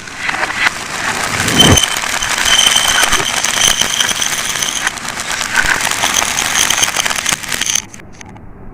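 Marbles rolling and clattering along a marble-run track: a dense stream of clicks over a steady high ringing, which cuts off suddenly near the end.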